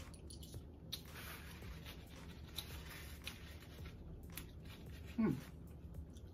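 Soft chewing and mouth clicks as fast food is eaten, with a paper napkin rustling in the middle. A short hummed "mm" with falling pitch comes about five seconds in.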